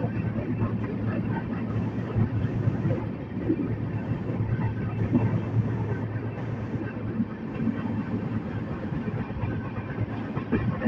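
Passenger train running along the line, heard from on board the Amravati–Pune Express: a steady rumble of coach wheels on the track, with scattered small clicks and rattles.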